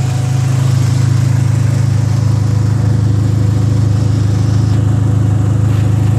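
Dodge Neon SRT-4's turbocharged 2.4-litre four-cylinder, fitted with a big turbo, idling steadily with a deep, even drone.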